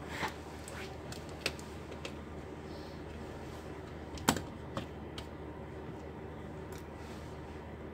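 Scattered small clicks and taps of laptop parts being handled during a repair, the loudest a little over four seconds in, over a steady low hum.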